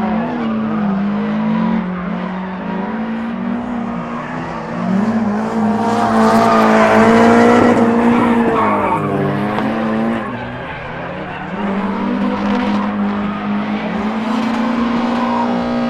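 Drift cars' engines held at high revs, the pitch stepping up and down with throttle, with skidding tyres squealing. It is loudest about six to eight seconds in, dips around ten seconds, then builds again.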